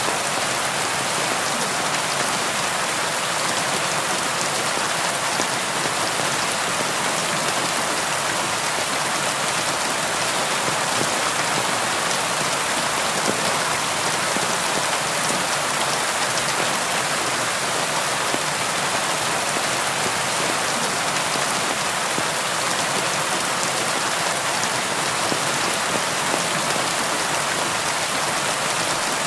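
Steady rain falling on a window, an even patter of drops that keeps on without let-up.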